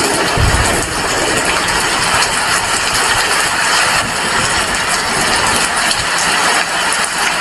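Heavy rain falling in a loud, even hiss. A low rumble comes in about half a second in and carries on beneath it.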